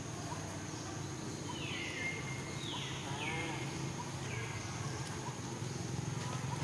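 Animal calls: four high calls, each sliding down in pitch and then briefly held, over a steady high insect drone.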